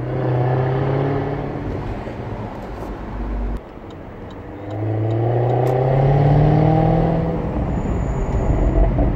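Jaguar F-Type R's supercharged V8 with its exhaust flaps open, pulling twice under throttle. A short pull comes at the start and is cut off sharply about three and a half seconds in. A longer pull follows, its pitch climbing slowly before it eases back. It is heard from the open-top cockpit.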